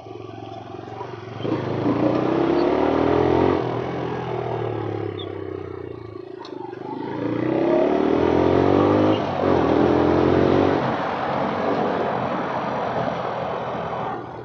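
150 cc motorcycle engine pulling hard twice, its pitch climbing each time before easing off, under a steady rush of wind on the microphone.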